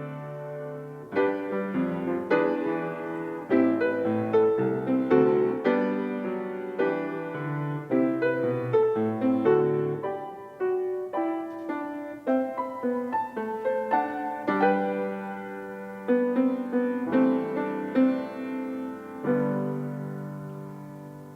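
Solo piano playing a slow, chordal piece, with one note or chord struck after another and each left to ring. A last chord is held and fades out near the end.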